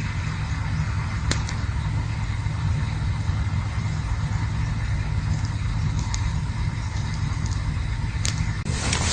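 Campfire burning: a steady low rumble with a few sharp crackles now and then. A louder rushing noise starts right at the end.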